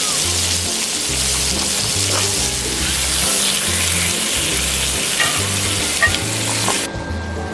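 Food frying, with a steady sizzle that cuts off abruptly near the end, over background music with a stepping bass line.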